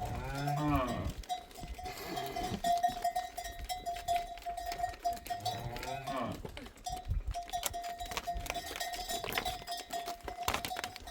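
Bells on migrating livestock ringing steadily, with a cow lowing at the start and again about six seconds in. Scattered knocks run throughout.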